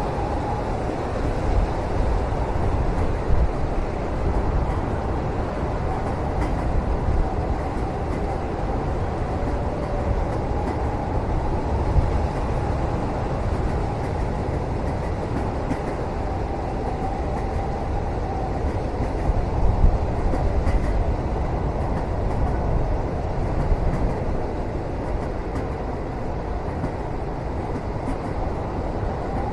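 Train running, heard from inside a passenger cabin: a steady low rumble with a faint wavering whine and a few light knocks.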